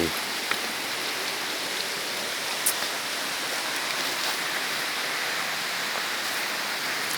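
Steady, even hiss of rushing water from a waterfall and its river, with a few sharp clicks, the loudest about two and a half seconds in.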